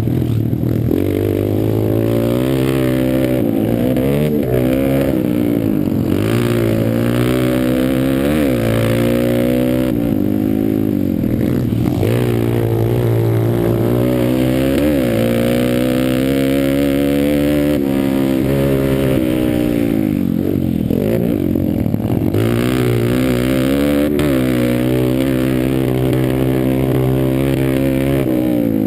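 Pit bike engine revving hard under race throttle, its pitch climbing and dropping again every couple of seconds as the rider accelerates, shifts and backs off.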